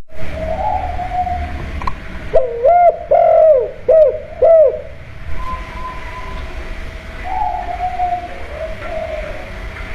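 Spotted dove cooing: a quick run of arched, falling coos a little after two seconds in, then a longer drawn-out coo later on. A faint steady tone sits under the calls.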